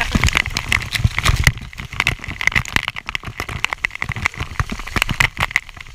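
Irregular close knocks, scrapes and splashes as waterfall water strikes the action camera and the rappeller moves down the wet rock.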